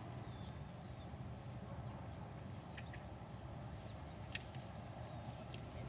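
Small bird chirping, a short high note every second or two, over a faint low steady rumble of outdoor ambience.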